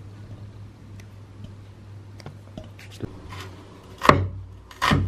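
Knife chopping vegetables on a cutting board: faint light taps at first, then two loud chops about four and five seconds in, over a low steady hum.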